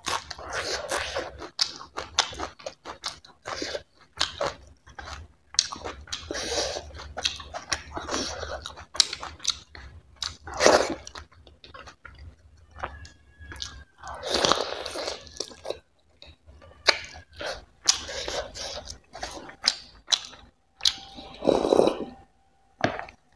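Close-miked mouth sounds of a person eating chicken curry by hand: wet chewing and lip-smacking in irregular bursts with short pauses. Near the end comes a longer, louder slurp as curry gravy is sipped straight from a glass bowl.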